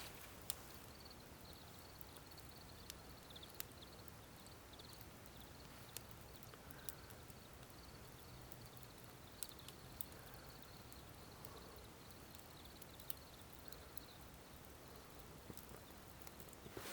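Faint crackling of a wood fire, with sparse sharp pops every second or two and a faint high chirping over most of it.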